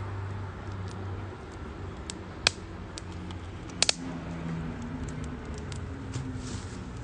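Wood fire crackling in a UNIFLAME Nature Stove campfire stove: scattered light ticks, with a sharp pop about two and a half seconds in and a quick double pop about a second later.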